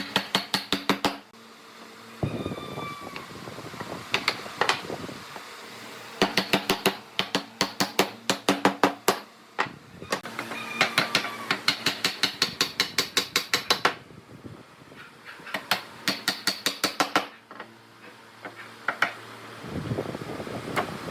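Runs of rapid, evenly spaced tapping or clicking from workshop tool work, about eight strikes a second in bursts of one to three seconds, with a low hum beneath.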